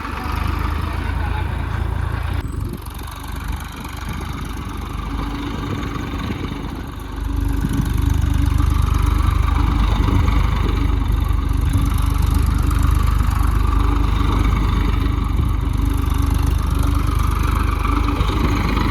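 Massey Ferguson tractor's diesel engine running, getting louder about seven seconds in as it is worked harder, while the tractor tries to pull itself out with its tyres sunk in the ground.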